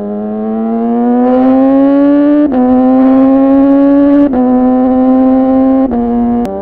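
2014 Yamaha R6's inline-four engine through an R9 titanium muffler and Leovince header, pulling hard under acceleration: the pitch climbs, then drops abruptly three times as it shifts up a gear, each time climbing again.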